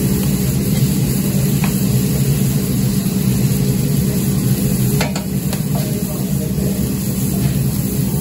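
Diced chicken sizzling on a large steel tantuni griddle over a steady low hum, with a few light clicks of a metal spoon against the pan about halfway through.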